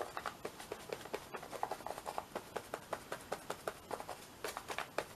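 Soft, quick taps and dabs of patting a glued paper napkin piece down onto a journal page, a few taps a second.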